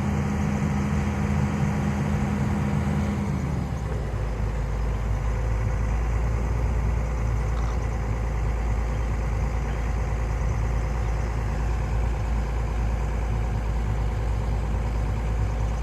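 Heavy diesel engine running at raised speed, then dropping in pitch about three seconds in and settling into a steady low hum.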